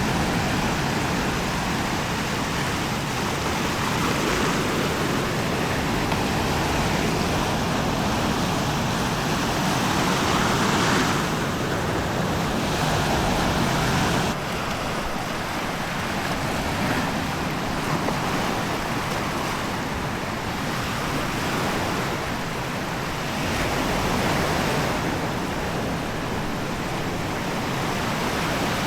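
Waves washing onto a sandy beach, a steady rush of surf that swells and eases every several seconds.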